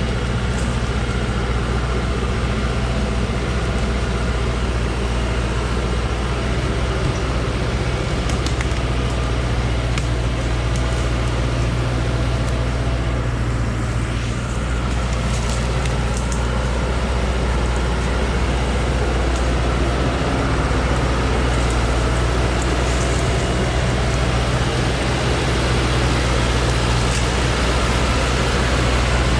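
Engine of a modified truck hauling a load of acacia timber, running steadily with a low drone, with a few light rattles from about eight to sixteen seconds in.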